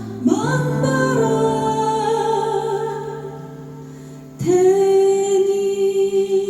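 Women singing the drawn-out last line of a slow Korean song over instrumental accompaniment, in long held notes with vibrato. The singing fades, then a new long note comes in about four seconds in.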